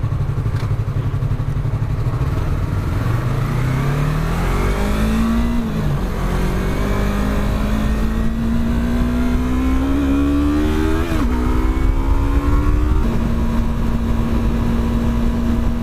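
Yamaha R3's parallel-twin engine pulling through the gears. The pitch climbs, dips at a shift about six seconds in and again near eleven seconds, then holds steady at cruising speed over a low rumble.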